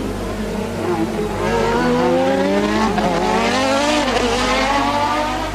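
1988 Formula One car engine running at high revs, getting louder about a second and a half in. Its pitch climbs and falls, dipping and rising again near four seconds in.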